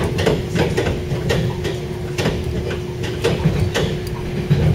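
Inside a moving train carriage: a low running rumble under a steady hum, with irregular sharp clicks and rattles.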